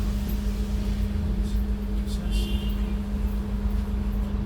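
Scania N280UD double-decker bus with its Scania DC09 CNG engine and Voith gearbox running steadily, heard from the top deck as a constant hum over a low rumble. A brief high-pitched sound cuts in a little past halfway.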